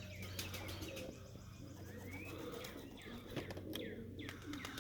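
Pigeons cooing in and around their loft, with repeated short falling chirps, a few sharp clicks and a low steady hum underneath.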